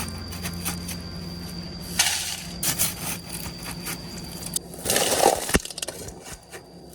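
Hard objects being handled: scattered sharp clicks and clinks, with two louder scraping rushes about two seconds in and about five seconds in.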